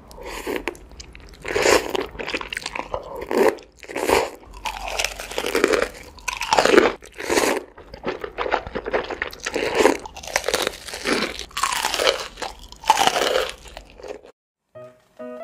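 Ramen noodles slurped close to the microphone from chopsticks: a string of long, wet slurps about a second apart, with chewing between them. It stops about a second before the end, where light music begins.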